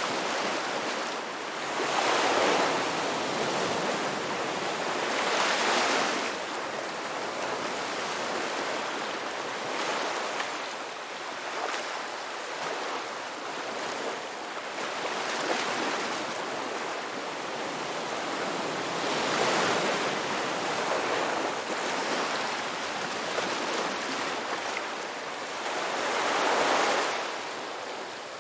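Ocean waves breaking on a beach: a steady hiss of surf that swells into a louder wash every few seconds.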